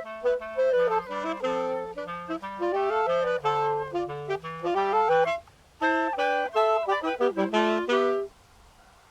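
Woodwind trio of flute, clarinet and saxophone playing a quick, busy passage in several parts over a moving low line. The music breaks off briefly about five and a half seconds in, comes back, and stops at the end of a phrase about a second before the end.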